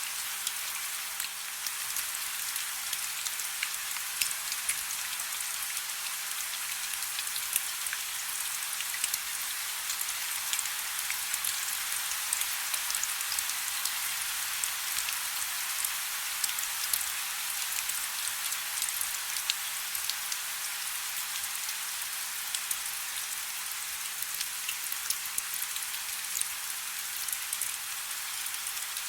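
Steady soft rain, a dense patter of fine drops with a hissing wash and no low rumble.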